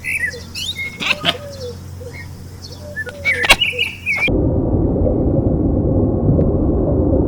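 Small birds chirping in short high notes, with a few clicks. About four seconds in, this cuts off abruptly to a steady low rumbling noise.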